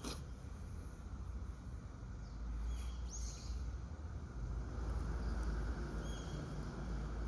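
Steady outdoor background noise with a few short, high bird chirps, one about three seconds in and another about six seconds in. A sharp click comes right at the start.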